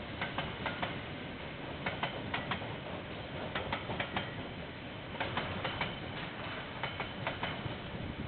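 Freight train wagons rolling past, with a steady rumble and irregular sharp clicks in small clusters, typical of steel wheels going over rail joints.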